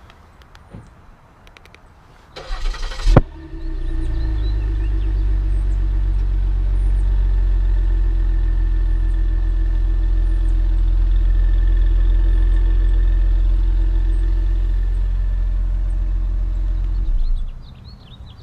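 Ford Taurus SHO's 3.5-litre EcoBoost twin-turbo V6, remote-started: it cranks and fires about two and a half seconds in with a brief flare, then idles steadily. Its sound drops off sharply near the end.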